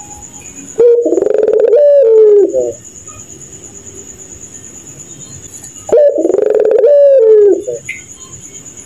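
A puter pelung (domestic ringneck dove) giving two long cooing calls about five seconds apart, each lasting about two seconds, with the pitch wavering and bending down at the end: the call its keepers call 'laughing'. A steady high cricket trill is heard between the calls.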